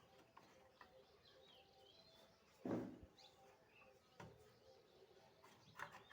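Faint birds chirping in the background, with a single sharp knock about three seconds in and a lighter click a little after four seconds.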